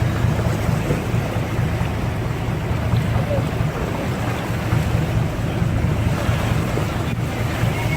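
Ocean surf and rushing water, with wind buffeting the microphone in a steady low rumble.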